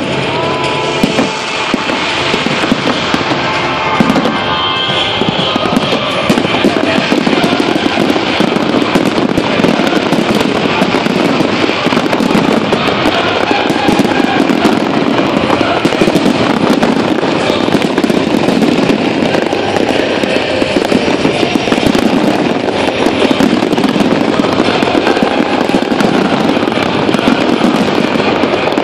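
Aerial fireworks going off in a rapid, unbroken barrage of bangs and crackles, shell after shell with no pause.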